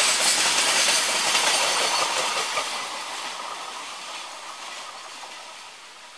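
Loaded freight train's wagon wheels clattering over the rail joints as the last wagons and the brake van pass, the sound fading steadily as the train draws away.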